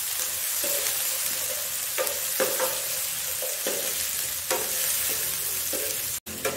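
Diced potatoes and onions sizzling in hot oil in a frying pan, stirred with a metal spatula that scrapes and taps against the pan several times. The sound drops out for a moment near the end.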